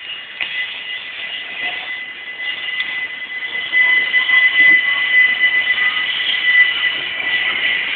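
A train running through the station with a steady high-pitched squeal from its wheels, growing louder about halfway through.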